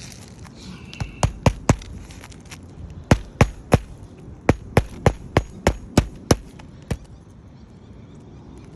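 Hammer driving roofing nails into a replacement shingle: sharp strikes in runs, four blows, then three, then seven at about three a second, and one last blow near the end.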